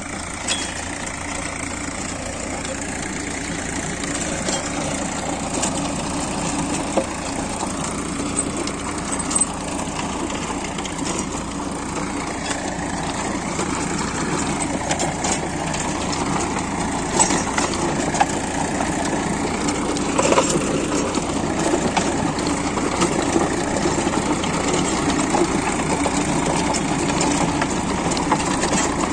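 Sonalika 745 DI tractor's diesel engine running steadily, with scattered sharp clicks and knocks over it.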